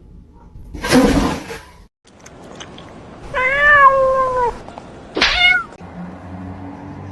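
A cat meowing: one long meow with a drop in pitch at its end, then about two seconds later a shorter call that sweeps sharply up. A brief burst of noise comes about a second in, before the meows.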